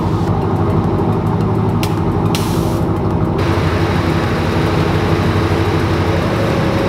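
Turbocharged Ford Mustang GT's 4.6-litre three-valve V8 idling steadily through its custom exhaust.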